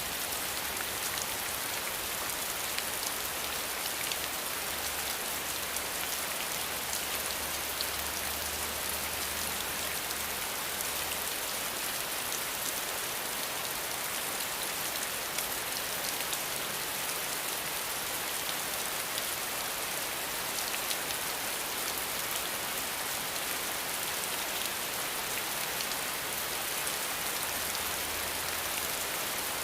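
Steady rain: a dense, even patter of drops on a surface, with no let-up.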